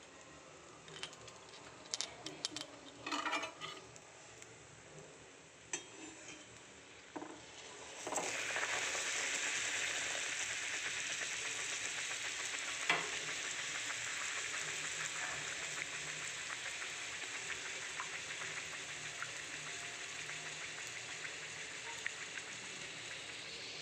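Whole-wheat luchi deep-frying in hot oil in a wok, sizzling. The first few seconds hold only a low sizzle with a few light clicks and scrapes. About eight seconds in the sizzling turns loud and then slowly eases off.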